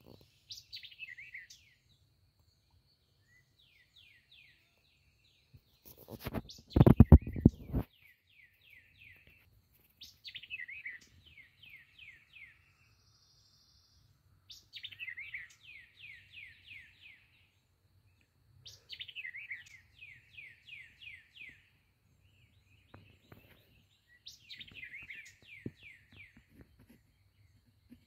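A songbird singing a repeated phrase, a quick run of descending notes, every few seconds. About six seconds in there is a loud, brief rustling burst of noise.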